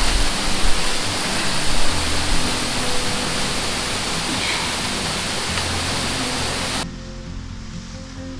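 Waterfall rushing: a loud, steady hiss of falling water, with soft background music underneath. About seven seconds in the water noise cuts off abruptly, leaving only the music.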